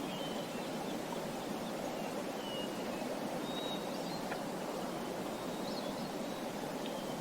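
Steady rush of running water, with small birds chirping faintly: short high calls scattered through it.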